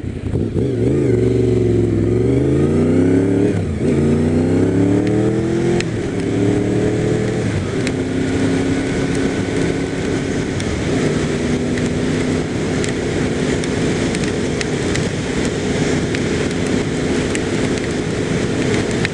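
Motorcycle engine under way, its pitch dropping and climbing again a few times in the first seven seconds as it changes speed, then holding steady at a cruise. A steady hiss of wind, tyres or rain runs underneath.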